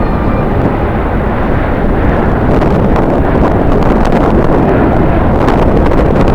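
Strong wind buffeting the microphone: a loud, continuous low rumble, with sharp crackles from the gusts in the second half.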